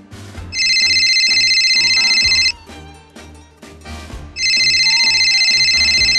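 Telephone ringing twice, each ring a fluttering high tone lasting about two seconds, with about two seconds between them.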